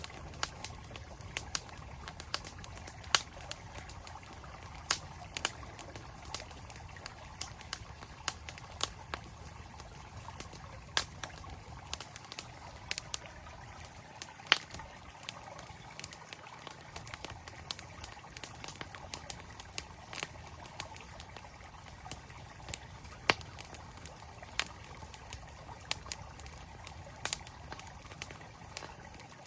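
Wood campfire crackling, with sharp pops at irregular intervals, over the steady rush of a flowing stream.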